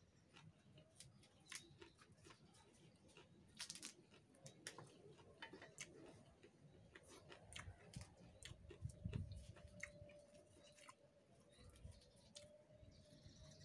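Faint chewing and mouth clicks as a man eats rice with raw papaya leaves by hand, with soft crinkles from the leaves being torn and folded.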